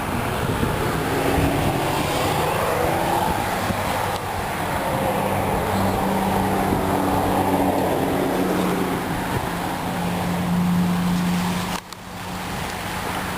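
A 2005 Nissan Pathfinder's 4.0-litre V6 running, its engine note rising and falling in pitch, with a brief drop in level near the end.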